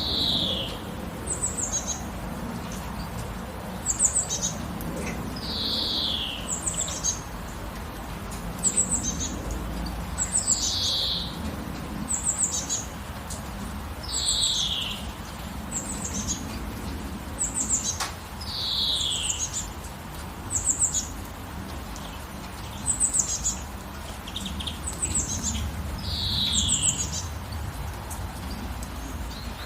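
Songbirds calling: a falling note repeats every few seconds, and quick, high, falling chirps come in twos and threes between them. A steady hiss lies underneath.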